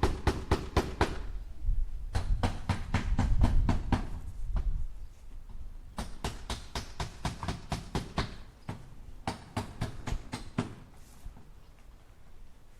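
Hammer driving nails into wood in quick runs of strikes, several blows a second, with short pauses between runs; quieter near the end.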